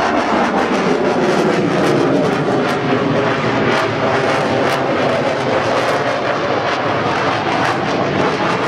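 Military aircraft flying past overhead: loud, steady engine noise with a crackling edge.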